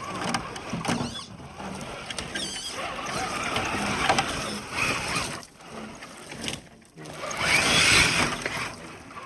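RC rock crawler's electric motor and drivetrain whining, the pitch rising and falling with the throttle, over a rough noisy background. The loudest, noisiest stretch comes about eight seconds in, after a short lull.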